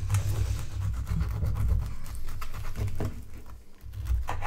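Handling sounds of sandwich making at a table: small taps, scrapes and rubs of a knife and food on a plate, over a low rumble of knocks against the table.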